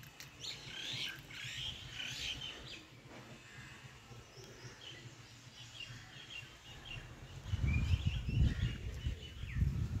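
Small birds chirping and twittering in quick high calls, busy near the start and again in the second half. About two thirds of the way through, a low rumble comes in and is louder than the birds.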